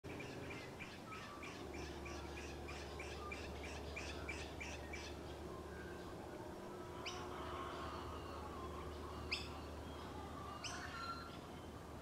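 Birds calling in the trees: a quick run of repeated chirps, about three or four a second, for the first five seconds, then a few sharp, separate calls.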